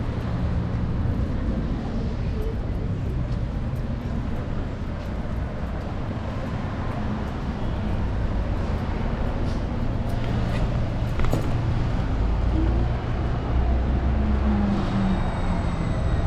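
City street traffic noise heard from a moving electric scooter, with a steady low rumble throughout. A few faint thin high tones glide in near the end.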